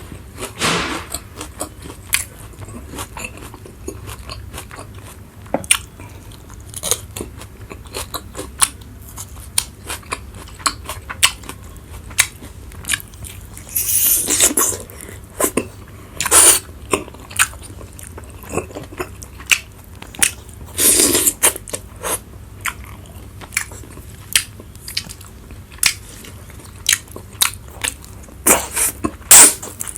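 Close-miked eating: a person biting and chewing food with many sharp crunches, wet mouth clicks and smacks, and a few louder noisy bites lasting about a second each.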